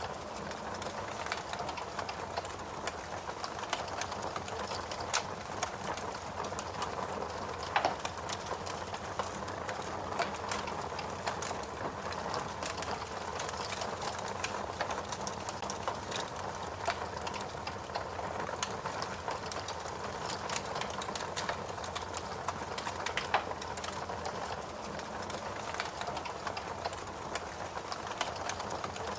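Wood fire burning with steady crackling, a dense stream of small snaps and a few louder pops.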